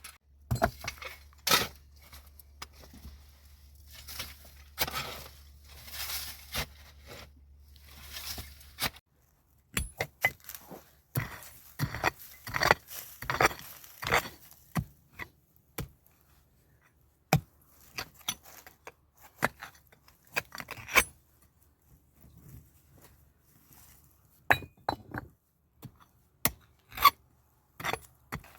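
Irregular sharp clinks, knocks and scrapes of hard objects being handled and set down, in clusters and then more sparsely.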